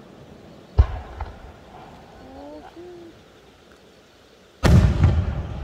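Aerial firework shells bursting: a sharp bang about a second in with a smaller report just after, then a louder boom near the end that rumbles on.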